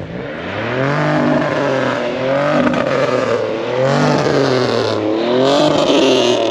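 Pontiac Bonneville's engine revved hard through a loud exhaust, its pitch climbing and falling about four times in a row, with an echo.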